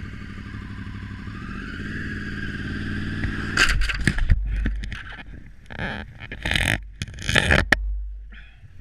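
Motorcycle engine rising in pitch as it speeds up for about three and a half seconds, then a run of loud knocks and scraping over the next four seconds as the bike crashes.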